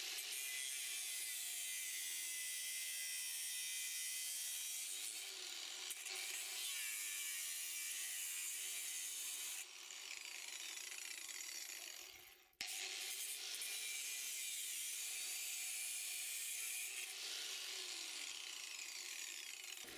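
Steady, faint sawing through the steel and copper stator of a refrigerator compressor motor, cutting it in half. It dips briefly about ten seconds in and stops for a moment a couple of seconds later before carrying on.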